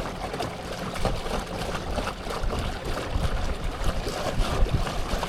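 Water rushing and splashing steadily along a kayak's hull as it moves under way, over an uneven low rumble.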